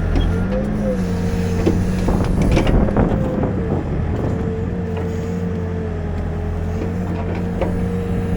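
Backhoe's diesel engine running steadily, its pitch dipping and recovering briefly near the start as it takes load. A few sharp knocks come between about one and a half and three seconds in.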